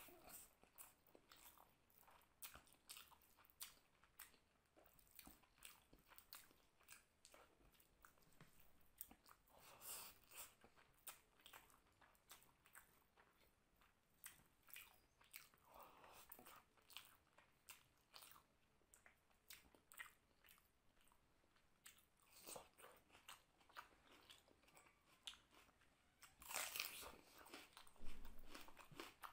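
Close-up sounds of a person chewing mutton curry and rice: irregular, faint wet mouth clicks and smacks, with a louder spell of chewing near the end.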